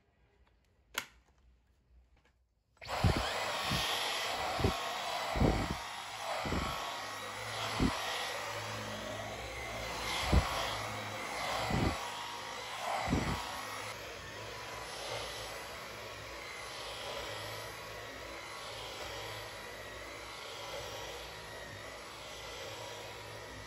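Vacuum cleaner switched on about three seconds in, running steadily with a low hum and a thin whine. The nozzle knocks dully several times at first, and after that the sound swells and fades in slow, even strokes.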